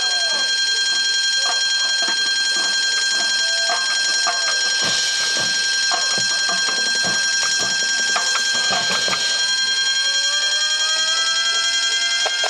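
Electronic alarm sound effect from a marching band's sound system: a steady, high-pitched ringing tone held throughout, with scattered short clicks and hits, and tones that rise slowly in pitch over the second half.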